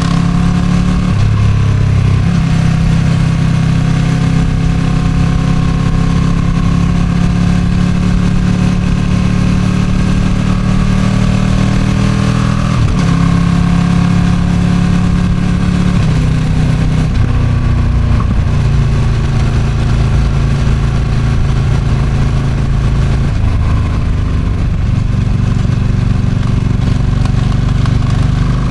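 Ducati Streetfighter V2's 955 cc L-twin engine running under way through its stock exhaust, its note stepping up and down a few times as throttle and gears change, with wind noise on the microphone.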